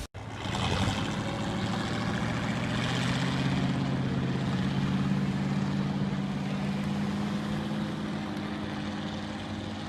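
A vehicle engine running at a steady speed, a continuous low hum that starts abruptly.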